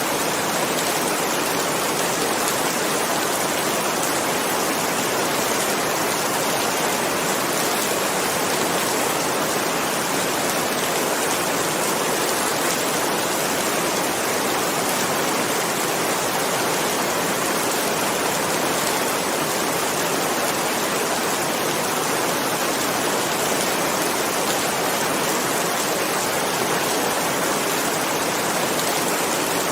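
Rain falling steadily: a constant, even hiss with no thunder claps.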